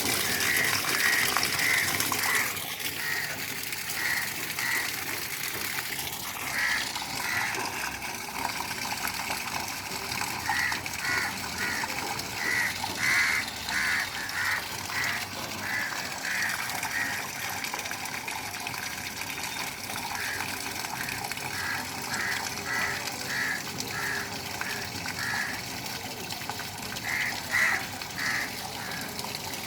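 Rainwater rushing into a cleared street drain as a steady wash, with runs of short, repeated pulsing sounds over it.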